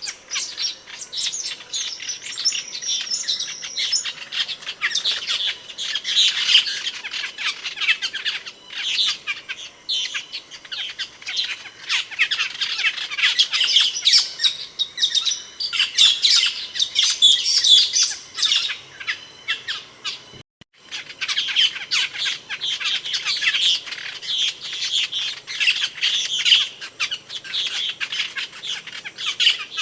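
Asian glossy starlings (cucak keling) calling: a dense, unbroken stream of quick, high chirps and squawks. It breaks off for a split second about two-thirds of the way through.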